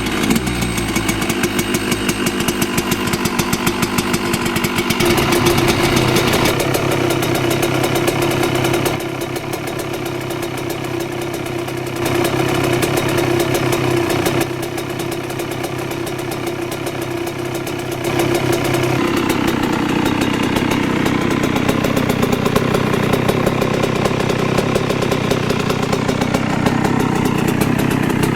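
Yamaha YZ125 single-cylinder two-stroke motocross engine running at idle, its note steady with a few sudden shifts in loudness, after being revved and dropping back.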